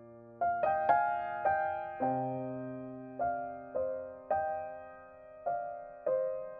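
Soft background piano music: single notes and chords struck one after another, each ringing and fading before the next.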